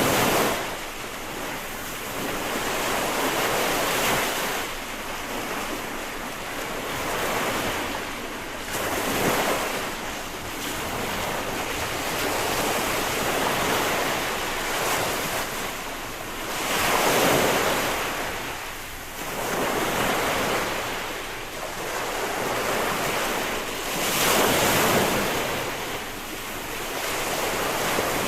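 Ocean surf: waves breaking and washing in, swelling and falling away every few seconds.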